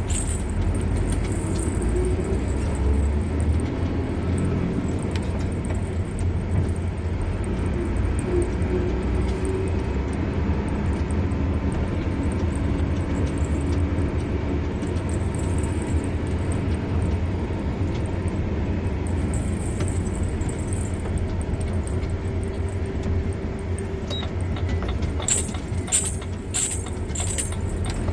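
A car driving along a road: a steady low rumble of engine and tyres, with a few light clicks or rattles near the end.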